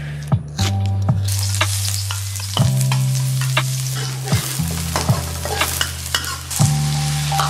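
Chopped onions sizzling in hot oil in a wok, stirred with a metal spatula that scrapes and clicks against the pan. The sizzling comes in about a second in.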